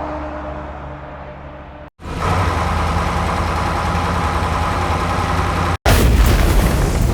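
Vehicle engine sound in three cut-together pieces. First an engine rumble fading away, then a steady, louder engine rumble, then a sudden louder blast of noise that begins to die away near the end.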